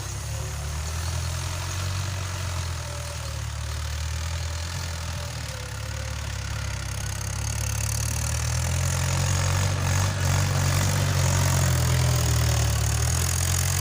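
A tractor's diesel engine running steadily, working the field on ploughing duty, and growing louder a little over halfway through.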